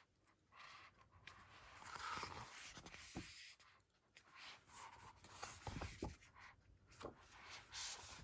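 Faint rustling of a paper booklet's pages being handled and turned, with a few soft knocks.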